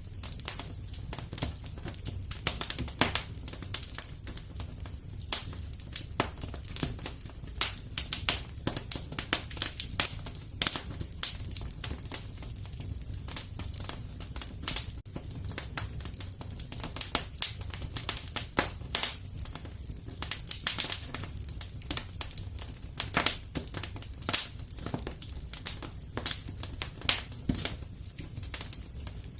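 Wood fire crackling in a fireplace: a steady low rumble of the flames with frequent irregular pops and snaps.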